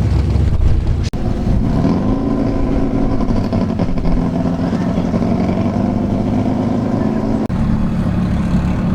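Turbocharged drag car engine running loud; its pitch climbs about two seconds in and then holds steady and high. The sound breaks off abruptly and changes twice, about one second in and near the end.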